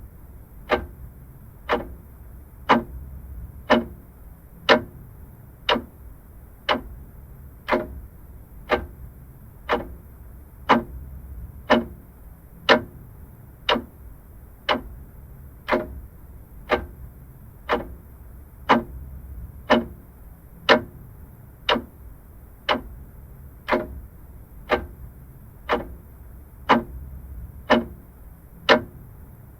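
Vintage mechanical clock ticking steadily, about one sharp tick a second, with a faint low hum underneath.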